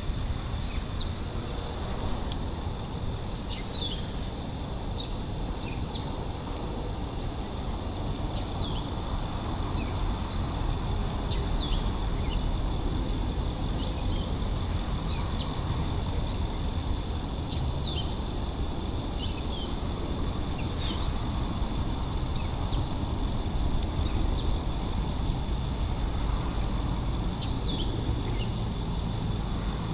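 Outdoor ambience: scattered short bird chirps over a steady low rumble, with a thin steady high tone.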